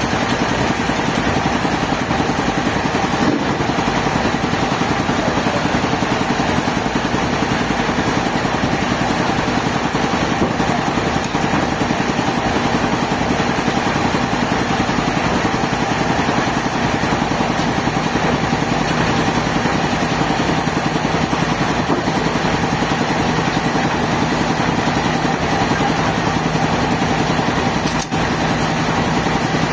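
Sawmill machinery running with a steady, continuous engine-like drone.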